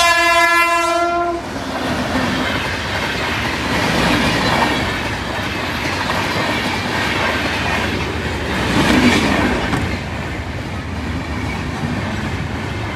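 A train horn sounds one held note that cuts off about a second and a half in. Then an Indian Railways passenger train runs past close by, with a steady rumble and the clatter of its wheels over the rails.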